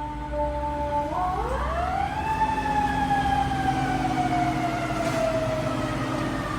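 Fire engine siren wailing over the low rumble of the truck's engine. The pitch drops slowly, climbs steeply about a second in, then falls gradually for the next few seconds.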